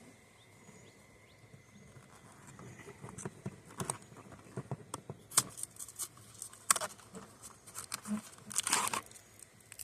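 A cardboard cookie box being handled and opened: scattered clicks and crinkles of packaging, with a longer tearing, rustling burst near the end.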